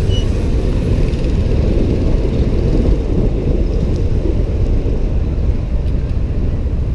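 Steady low rumble of riding a motorbike through city traffic, engine and road noise mixed with wind on the microphone.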